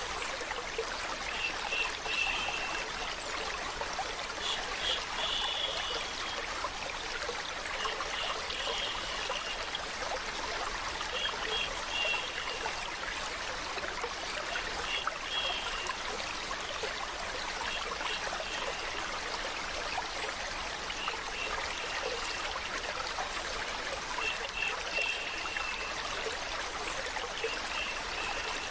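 Water flowing and trickling steadily, like a small stream. A short high-pitched sound comes back every few seconds.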